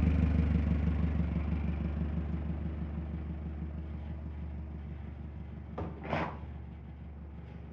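Car engine idling with a low, steady rumble that slowly fades, with a brief higher-pitched sound about six seconds in.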